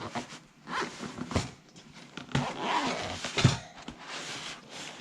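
Handling noise: irregular rustling and scraping with a few light knocks, the loudest about a second and a half in and near the middle.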